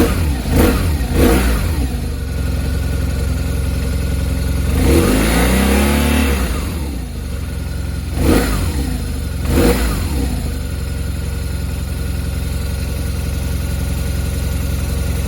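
BMW R1200RT's boxer-twin engine running just after a cold start, idling with short throttle blips twice near the start and twice about eight and ten seconds in. A longer rev rises and falls around five to six seconds in.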